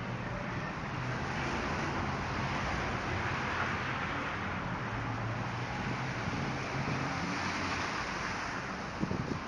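Road traffic driving past: engine hum and tyre noise swell to a peak about halfway through, then ease off.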